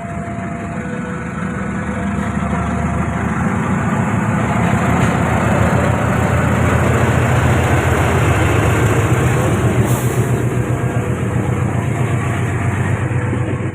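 Train passing close by a level crossing: heavy engine and rail noise that builds over the first few seconds and stays loud, at its loudest about ten seconds in.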